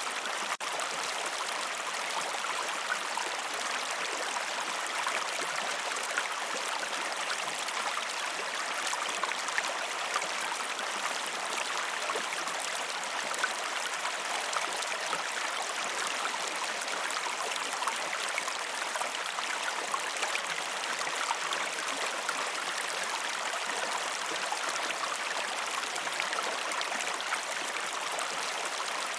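River and waterfall running: a steady, even rush and splash of flowing water, with a brief dip in level about half a second in.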